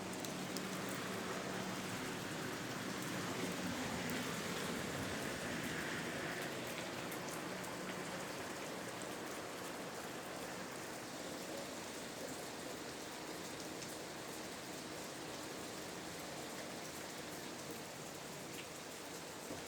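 A steady, even hiss that eases slightly toward the end.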